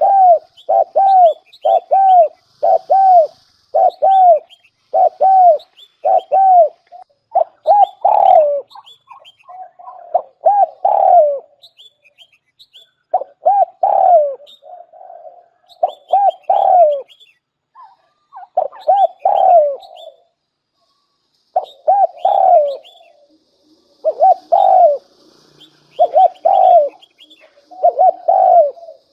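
Spotted dove (cu gáy) cooing as a lure bird, a long series of clear, arching coos. For the first several seconds they come evenly at about two a second, then in short phrases of two to four coos separated by pauses of a second or two.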